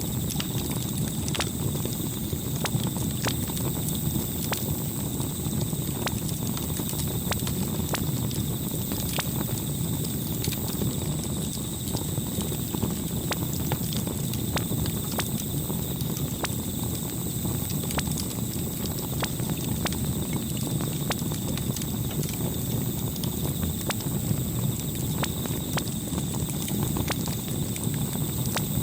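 Campfire crackling: irregular sharp pops and snaps over a steady low rush of the burning fire.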